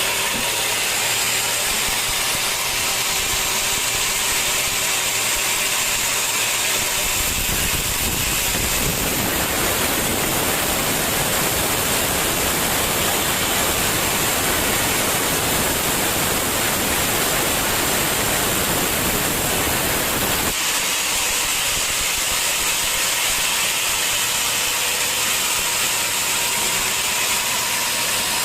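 Sawmill saw running steadily with a high whine. About seven seconds in, the sound turns denser and fuller as the blade goes into the teak, and it eases back near the end when the cut is through.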